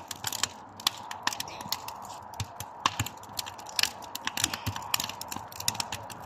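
Wood fire crackling as burning boards catch, with dense, irregular sharp pops and snaps of varying strength.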